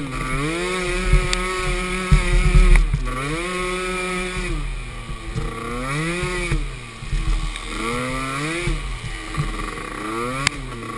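Small youth ATV engines racing, revving up, holding and dropping off again and again every couple of seconds as the throttle is worked over the course.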